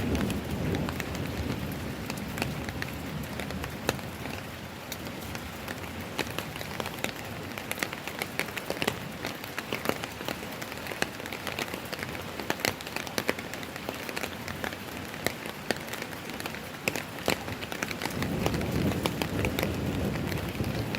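Rain falling steadily, with many separate drops striking close by as sharp ticks. A low rumble underneath fades early on and comes back near the end.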